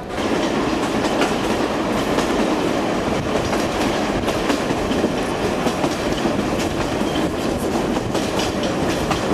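Passenger train running on jointed track: a steady rumble with the clickety-clack of wheels over rail joints.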